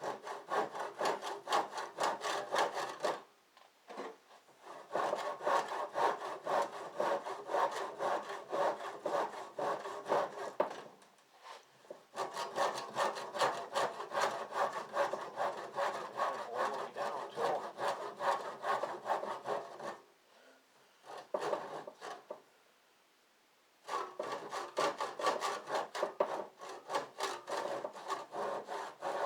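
Handsaw cutting through a garage door with quick, even back-and-forth strokes, in long spells broken by several short pauses.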